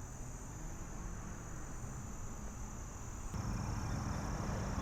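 Steady high chirring of insects, crickets or similar, over a low outdoor rumble. About three seconds in, the chirring shifts slightly lower in pitch and the rumble grows louder.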